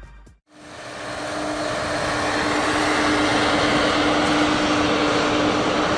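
Vehicle engine running steadily with a constant droning tone. It comes in just after the start and builds up over the first second or two.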